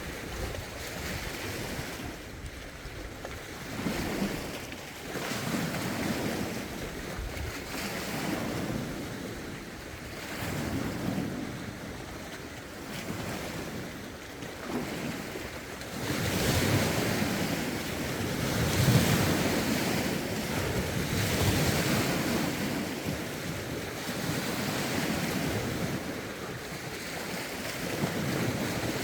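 Lake waves washing ashore in steady surges, with gusting wind buffeting the microphone; the waves and wind grow louder about halfway through.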